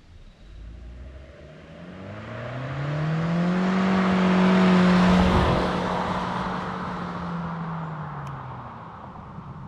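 Chery Omoda 5's 1.5-litre turbo-petrol four-cylinder under hard acceleration. The revs climb for the first few seconds, then hold at one high pitch, the way a CVT automatic keeps the engine at steady revs. The sound swells to a peak about halfway through and fades, as the car passes close by and drives away.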